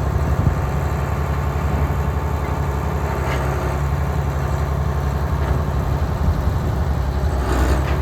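Farm machinery engine running steadily at a low, even hum, with a few faint knocks over it.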